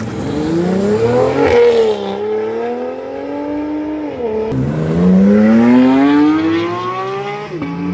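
Sports car engine revving hard as the car accelerates away through the gears: the pitch climbs, then drops sharply at a gear change about a second and a half in, again around four and a half seconds, and again near the end.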